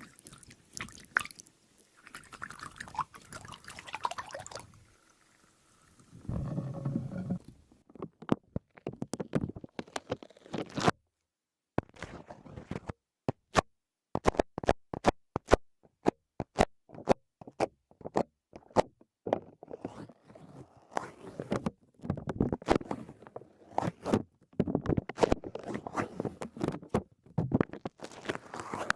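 A squishy squeeze toy is worked for the first few seconds. About six seconds in, masking tape takes over: it is pulled and handled in a long run of sharp crackling clicks, with denser rustling near the end.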